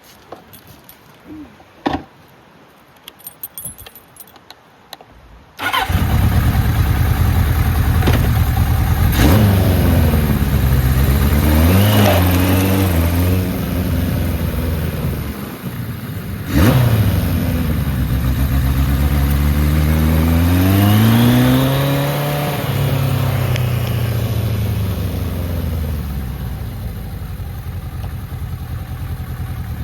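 A 1980 Kawasaki KZ1000 LTD's air-cooled inline-four starts about six seconds in, after a few small clicks. It then runs, rising and falling in pitch twice as it is revved or pulls away, with a sharp click near the middle.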